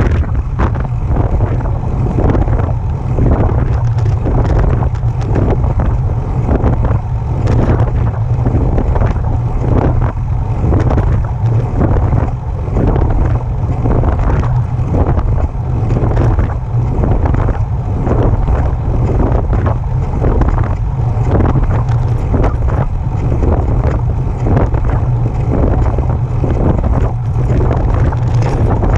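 Specialized Turbo e-bike drive running under pedaling, with a noise that repeats at a regular rhythm, in step with the pedal strokes. This is the unwanted noise the rider hears while pedaling. A steady low rumble of wind on the microphone runs underneath.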